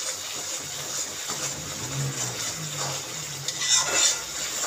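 Masala paste sizzling and bubbling in hot oil in a pan as a spoon stirs it, with a couple of louder spoon scrapes against the pan near the end. The paste is being fried until its water cooks off and the oil separates.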